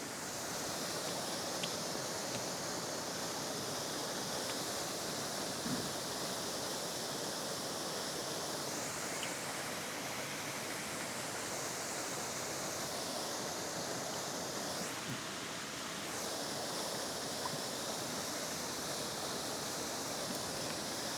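Steady rush of flowing river water, an even hiss with a few faint ticks.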